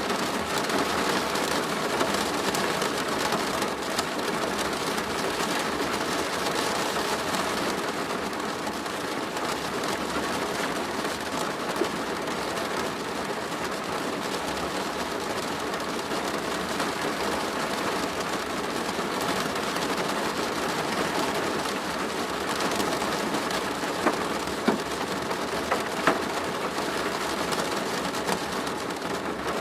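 Rain pattering steadily on a plastic roof: a dense, even hiss of drops, with a few sharper, louder drop hits near the end.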